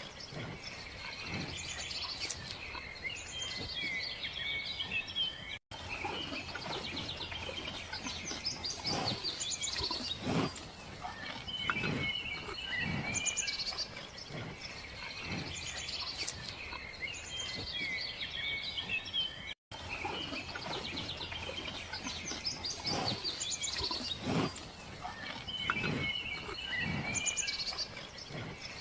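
Outdoor ambience of many small birds chirping and singing, with soft low thuds every few seconds. The same stretch repeats as a loop, with two brief dropouts where it restarts.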